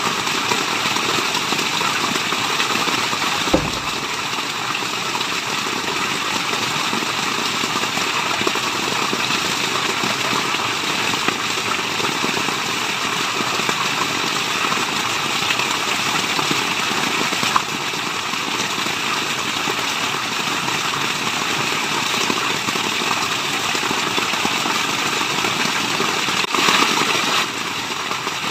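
Steady, continuous rush of falling and running water, an even hiss with no pitch, broken only by a couple of faint ticks.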